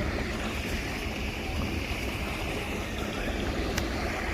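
Floodwater rushing steadily, a continuous noisy wash.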